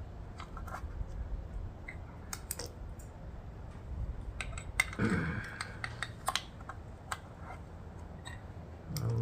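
Scattered light clicks and taps of small metal parts: valve lifter buckets being handled and set into their bores in a 2AZ-FE cylinder head.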